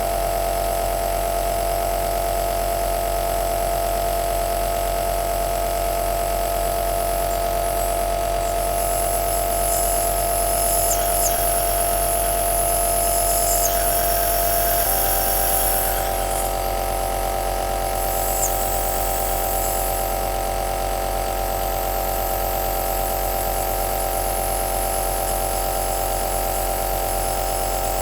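Home compressor nebulizer running steadily: an even motor hum with a steady whine and a hiss of air above it. The whine steps up slightly in pitch about halfway through.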